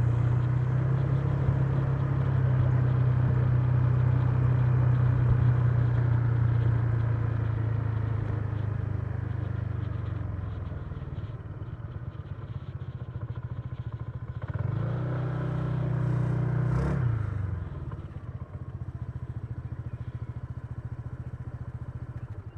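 Honda Giorno 125 scooter's single-cylinder four-stroke engine running at a steady cruise, then easing off about ten seconds in. Around fifteen seconds in it revs up briefly, then drops back to a lower, evenly pulsing idle-like note.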